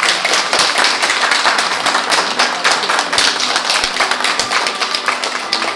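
Audience applauding: dense, steady clapping at the end of a performance.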